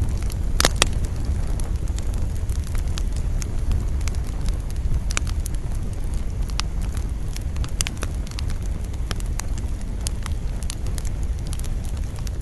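Campfire crackling, with scattered sharp pops and a louder double pop about a second in, over a steady low rumble of wind.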